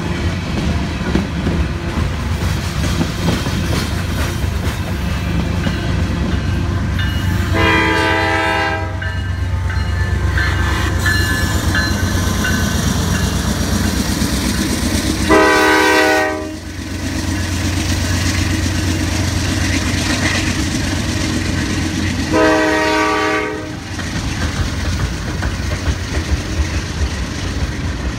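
Norfolk Southern freight train rolling by with a steady low rumble and wheel clatter, while a locomotive air horn sounds three separate blasts of about a second and a half each, several seconds apart.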